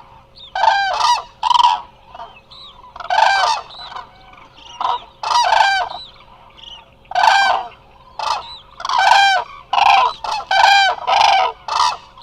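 A flock of Eurasian cranes calling: loud trumpeting calls from several birds, coming in quick runs and overlapping, more crowded near the end.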